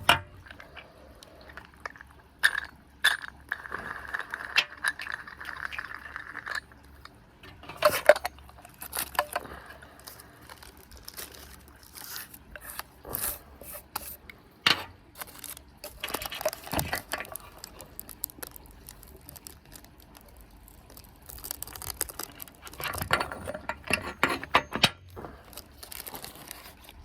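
A tobacco press being opened and worked at by hand: scattered clicks, knocks and scraping as the pressed tobacco is pried at. A steady high whine lasts about three seconds, starting a few seconds in.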